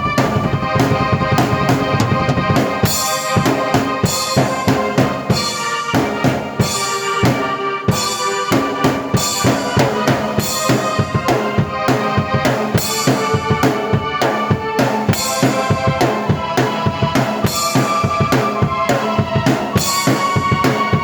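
Drum kit and keyboard playing an instrumental piece together: a busy kick-and-snare beat under sustained keyboard chords and melody.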